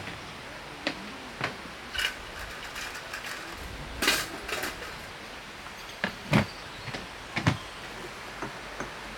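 Irregular knocks, clicks and clatters of hard objects being handled, about ten in all, the loudest cluster about four seconds in, over a steady background hiss.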